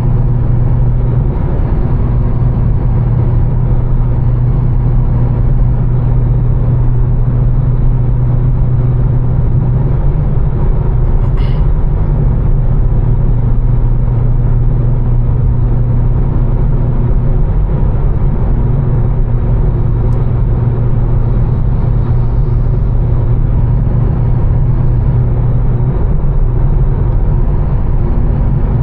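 A tuned twin-turbo straight-six BMW M4 with catless downpipes and an Fi exhaust, cruising at a steady speed on a wet road. Its low engine drone holds an even pitch over constant tyre and road noise, with one brief click about halfway through.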